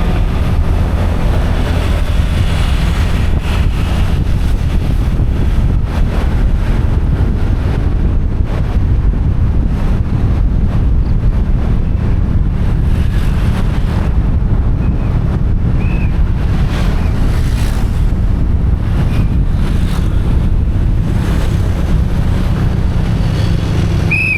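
Wind buffeting the microphone of a camera riding on a moving motorcycle: a steady, loud rumble with the bike's running noise underneath.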